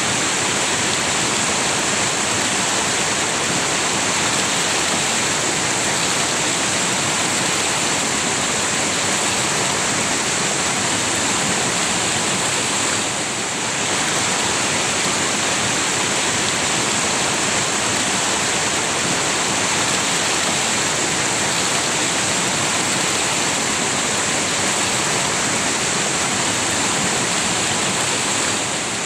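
River water rushing steadily, an even, constant noise with one brief dip in level about halfway through.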